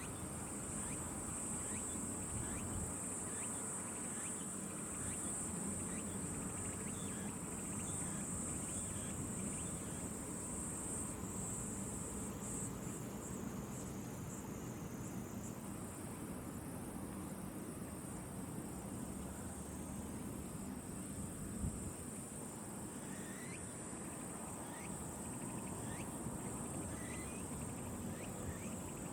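A steady high-pitched chorus of insects, typical of crickets, trilling continuously, with a low rumble underneath and a few short rising chirps near the end.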